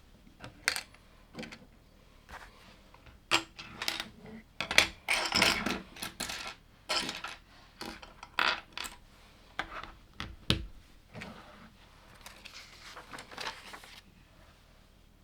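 LEGO plastic pieces clicking and clattering as they are handled and snapped together: a run of sharp irregular clicks, with a denser rattle of loose pieces being rummaged about four to six seconds in.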